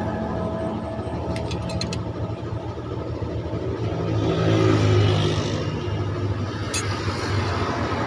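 Hino six-cylinder diesel truck engine running, its sound swelling for a moment about halfway through, with a few short sharp clicks.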